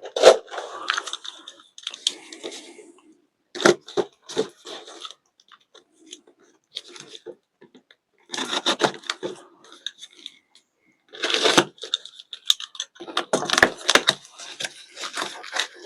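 Shipping packaging being torn open and unwrapped by hand: irregular bursts of tearing and crinkling, with short pauses between them.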